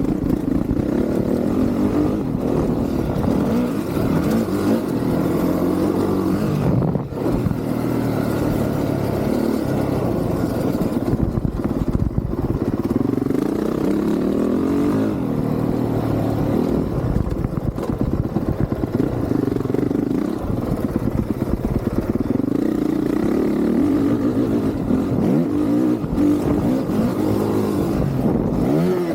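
Honda CRF450R's single-cylinder four-stroke engine under hard riding, revving up and falling off again every few seconds, with a brief dip and a knock about seven seconds in.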